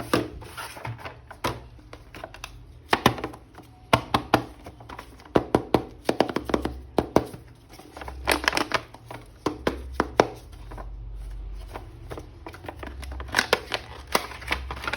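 Hands handling a plastic action figure and its packaging: irregular sharp clicks, taps and knocks, some in quick clusters.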